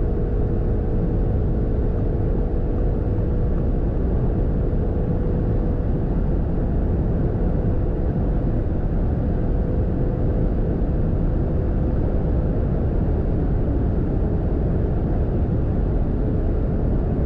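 Audi RS6 C8's 4.0 twin-turbo V8 at high speed, a steady drone mixed with heavy wind and tyre noise, the pitch holding nearly level with no gear changes.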